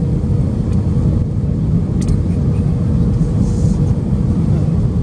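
Cabin noise inside an Airbus A320-200 on final approach: a steady low rumble of engines and airflow, with a faint steady hum running through it.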